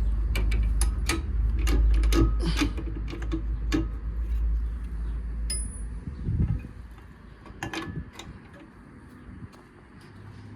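A rapid run of sharp clicks and knocks over a low rumble, with a single short high beep about five and a half seconds in and a few more clicks near the end.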